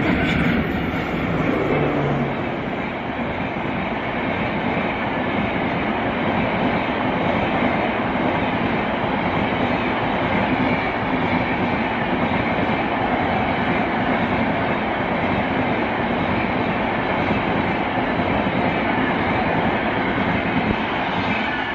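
Express train passing close by: a pair of electric locomotives goes past at the start, then a long rake of LHB coaches rolls by with a steady rumble and rattle of wheels on rail.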